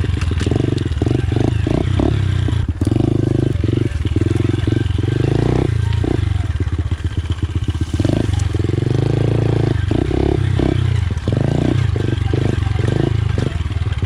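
Pit bike engine running under a rider on a dirt track, the revs rising and falling several times as the throttle is worked.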